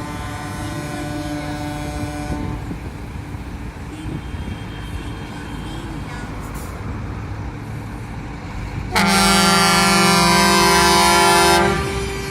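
Truck air horns sounding: a horn held for about two seconds at the start, then a much louder, lower air horn blast lasting nearly three seconds near the end, over steady low engine rumble.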